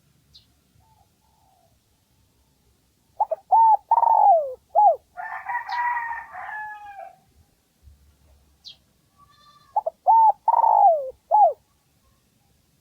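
Spotted dove cooing: two phrases of several arched coos, about six seconds apart. Between them comes a rougher, noisier call lasting about two seconds.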